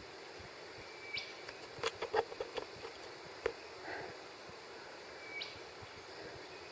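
A bird calls twice, each call a short level whistle that sweeps sharply upward at its end. In between comes a run of sharp clicks and crackles, the loudest sounds here, over a faint steady background.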